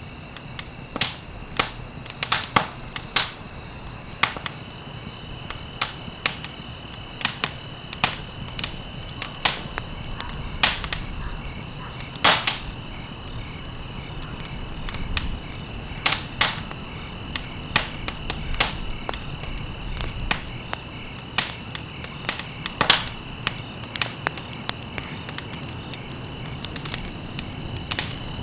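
Wood fire crackling, with irregular sharp pops, a few much louder than the rest, over a low hiss. Two steady high tones hold throughout underneath.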